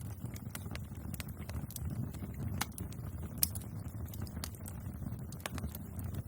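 Wood fire burning with a steady low rumble and irregular sharp crackles and pops, a louder pop about three and a half seconds in.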